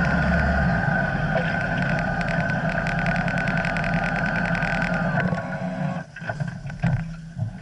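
Motorcycle engine running steadily, then cutting off about six seconds in, leaving quieter scattered sounds.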